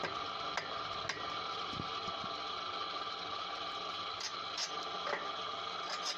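A homemade firewood machine running steadily with a mechanical hum, with a few sharp clicks or knocks scattered through it.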